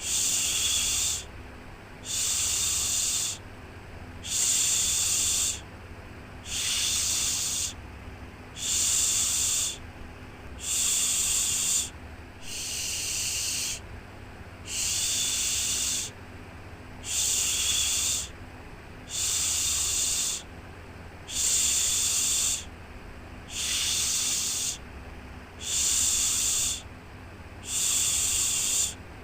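A human 'shhh' shushing sound for soothing a baby to sleep, repeated in an even rhythm: a hushing hiss of a bit over a second, then a short pause, about every two seconds.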